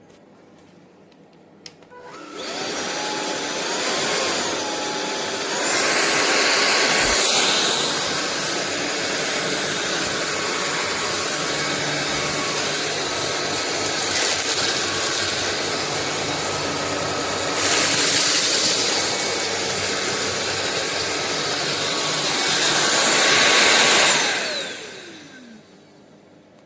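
Sulean X8 cordless stick vacuum cleaner switched on with a click, its motor whine rising to speed and then running steadily with a few louder stretches. Near the end it is switched off and the whine falls away as the motor spins down.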